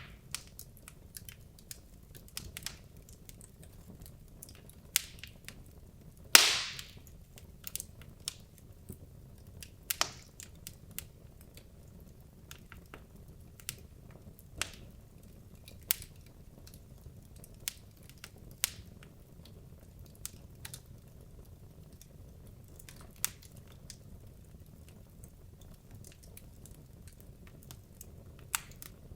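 Wood logs burning in a fireplace, crackling with scattered sharp pops over a low steady rumble of the flames; the loudest pop comes about six and a half seconds in.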